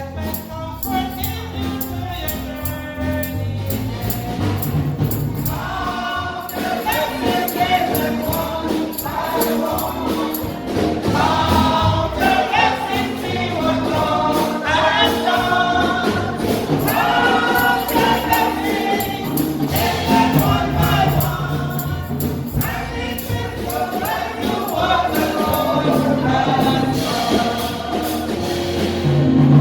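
Gospel music: a choir singing with a tambourine keeping a steady beat.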